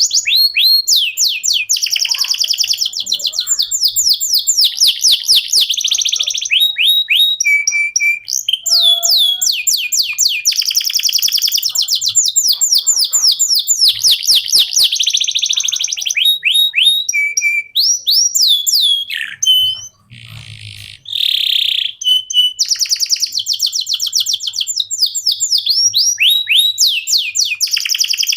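Domestic canary singing a long, continuous song of fast trills and quick rising and falling sweeps, with a short break about twenty seconds in.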